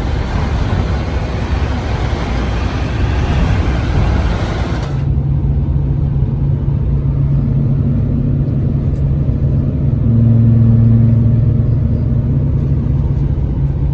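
Vehicle driving at speed with steady road and wind noise. After an abrupt cut about five seconds in, a steady low engine drone follows and swells briefly louder around ten seconds in.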